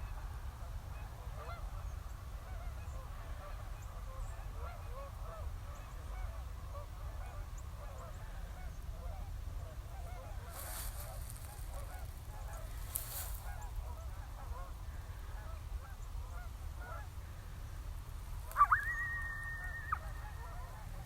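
A flock of geese honking, many overlapping calls. Near the end a loud, steady high tone starts suddenly and holds for about a second and a half.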